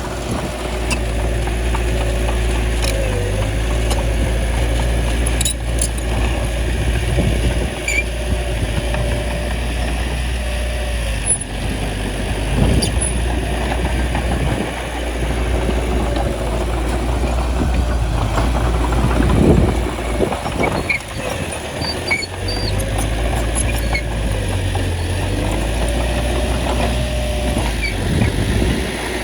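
Bulldozer diesel engine running steadily, its note shifting as it works. A few sharp clanks and knocks are spread through it.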